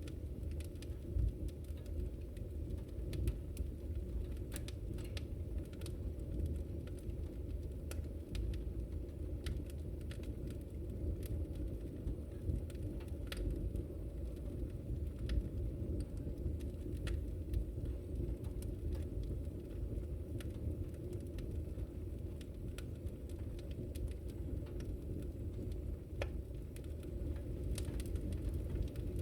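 Wood fire crackling in a fireplace: a steady low rumble of burning, with scattered sharp pops and snaps throughout.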